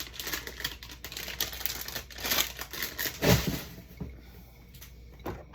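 Crinkling packaging and light knocks from food containers being handled and set down, busiest for about four seconds and then quieter.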